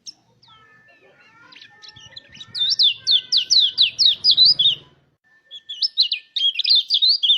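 White-eye (pleci) singing a rapid rolling phrase of high, sharply sweeping notes, about four a second, in two runs with a short break between them. Fainter chirps come before the runs.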